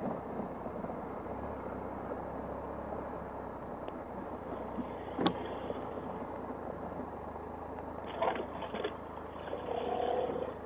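Motorcycle engine running steadily, heard through a helmet camera, with a single sharp click about halfway through.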